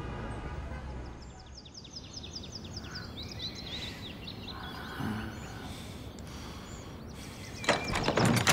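Small birds chirping in quick, repeated high trills over low background noise. A louder knock-like clatter comes near the end.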